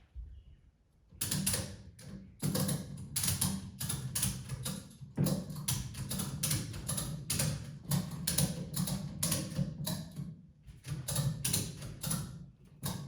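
A ratchet on the body-lifting straps being cranked, about three sharp ratcheting clicks a second, raising the truck body off the frame.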